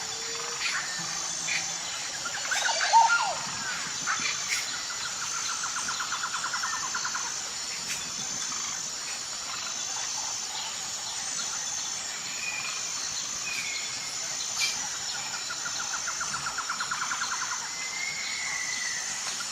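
Wild birds calling over a steady, high-pitched insect chorus: a loud call about three seconds in, two rapid trills of about two seconds each, and scattered short chirps.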